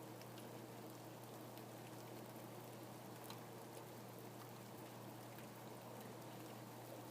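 Steady, quiet rain falling, with scattered sharp ticks of single drops and a faint steady low hum underneath.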